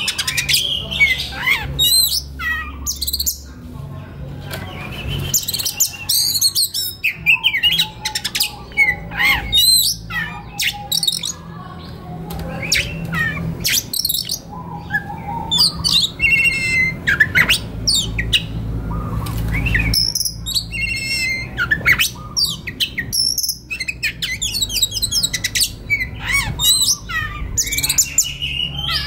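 Oriental magpie-robin singing a continuous, varied song of quick whistles, chirps and rising and falling notes with short harsher squawks mixed in.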